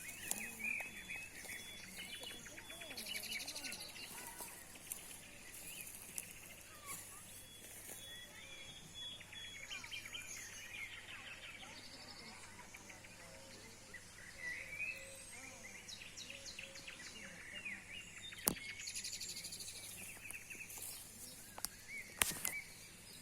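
Several songbirds chirping and trilling over one another, with quick rapid runs of notes. Two sharp clicks cut through, about two-thirds of the way in and again near the end.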